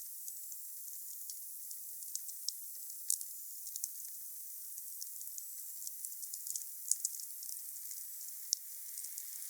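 Wood fire burning with a steady hiss and irregular sharp crackles and pops, a few louder snaps among them.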